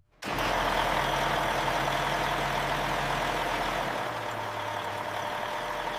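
Heavy pickup truck engine running steadily: a low hum under a broad rushing noise. It cuts in abruptly just after a moment of silence and eases a little about four seconds in.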